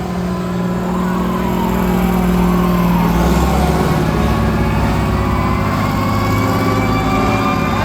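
Fire truck siren sounding over a truck engine. It sweeps up and falls back about once a second, then about halfway through changes to a long, slowly rising held tone.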